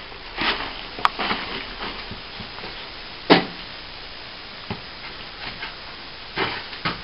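Loose old plaster being scraped and pulled away, with gritty crumbling and scraping. There is a sharp click about a second in and a louder knock a little after three seconds.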